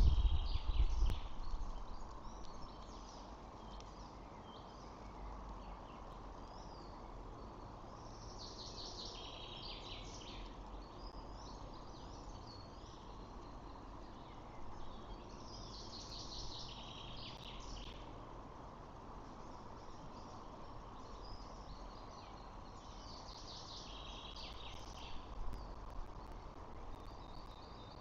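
Bird calls in short high chirping phrases, four bouts each lasting a second or two and spaced about eight seconds apart, over a steady outdoor background hum. A loud low rumble at the start fades out within about two seconds.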